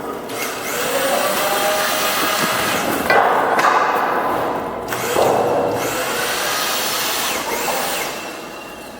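Steel on steel scraping and grinding as a heavy steel H-beam is shifted, in long strokes that start suddenly about 3 and 5 seconds in, with ringing tones that bend in pitch; it dies away near the end.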